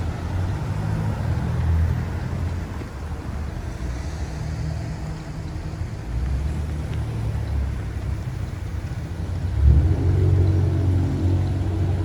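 Downtown street traffic: vehicle engines running. About ten seconds in, one engine grows louder and closer with a steady hum.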